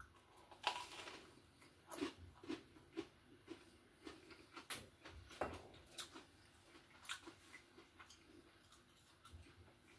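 Close-up chewing of a bite of pepperoni pizza sub: faint, irregular crunches and wet mouth clicks, a few a second.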